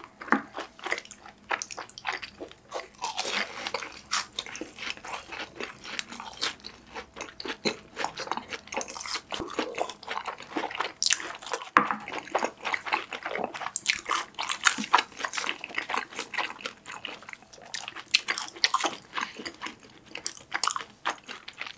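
Close-miked crunching and chewing of BHC Ppuring cheese balls, fried balls with a crisp seasoned crust, with many small crackles throughout.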